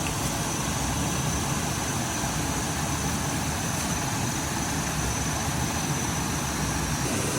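A waterfall rushing with a steady, unbroken noise, joined by a faint thin high whine.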